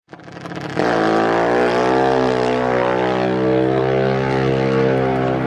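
Suzuki-based Pro Open drag motorcycle engine catching about a second in, then running loud at a steady fast idle.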